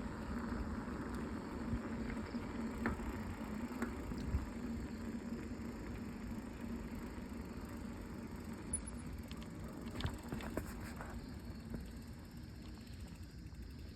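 Steady rumble of a ride along a road, with a low steady hum and a few faint clicks, slowly getting quieter through the second half.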